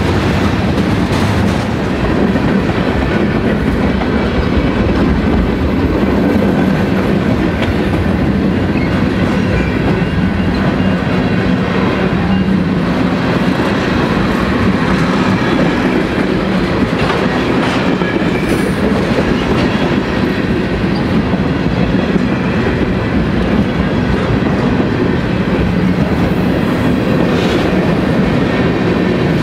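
Train cars rolling steadily past at close range, a continuous rumble of steel wheels on the rails.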